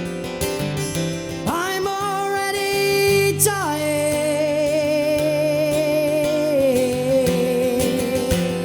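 Acoustic guitar strumming under one long held sung note that wavers. The note swoops up into place about one and a half seconds in, drops lower about two seconds later, and steps down once more near the end: the song's drawn-out final line.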